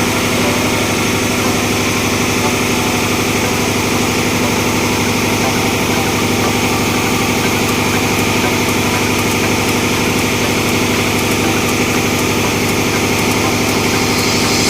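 Tugboat engine-room machinery running: a steady, unchanging engine drone.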